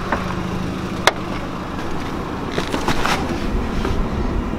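A car engine running steadily at idle, with a sharp click about a second in and some handling noises around three seconds in.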